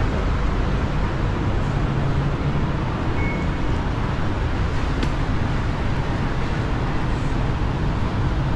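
Steady rumble of a BTS Skytrain electric train running, with a single click about five seconds in.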